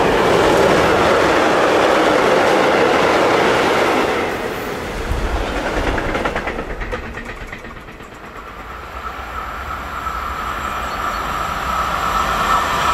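Freight train of tank wagons passing at speed, a steady rumble and clatter of wheels on rail that fades from about four seconds in as the last wagons go by. Then an approaching diesel locomotive, growing louder toward the end.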